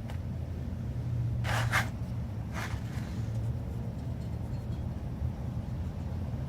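A steady low rumble, with three brief scuffing noises about one and a half to two and a half seconds in.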